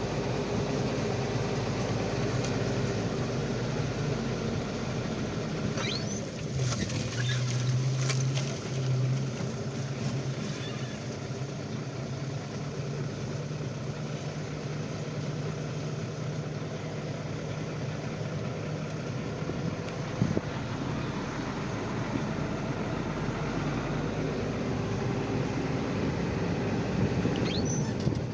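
Motor vehicle engine running steadily with a low hum over road or ambient noise, its pitch stepping up slightly a few seconds in. Brief high chirps or squeaks sound about six seconds in and again near the end.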